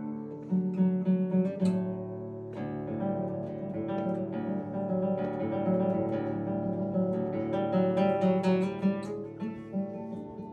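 Acoustic guitar music: plucked and strummed notes ringing on over one another.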